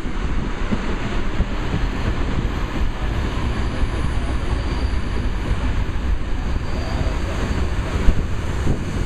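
Flåm Railway train running on the rails, a steady rumble heard from aboard the carriage. A single short knock comes about eight seconds in.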